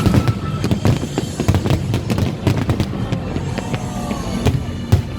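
Fireworks display going off in rapid succession, with many sharp bangs and crackles close together.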